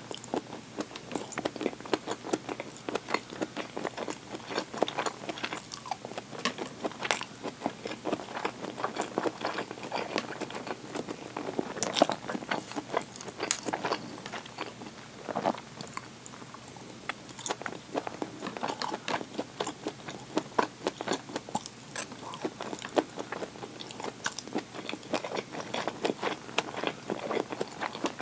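Close-miked eating of ready-made deli food: a steady, irregular run of biting, chewing and crunching mouth sounds, with small wet clicks.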